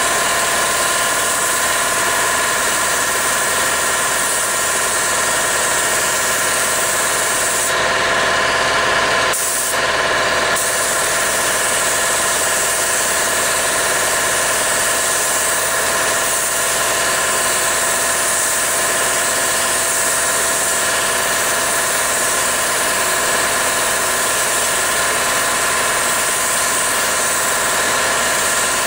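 Air spray gun hissing steadily as paint is sprayed at about 20 PSI, over the steady hum of a running air compressor. The hiss cuts out briefly twice, about eight and ten seconds in, as the trigger is let go.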